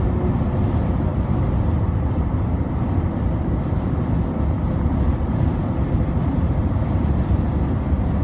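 Steady low rumble of highway driving: the car's road and engine noise mixed with big trucks running alongside.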